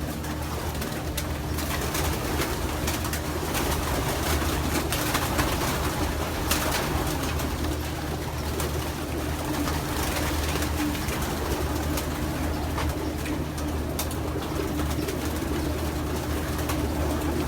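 Racing pigeons cooing in their loft over a steady low hum, with a few scattered light clicks.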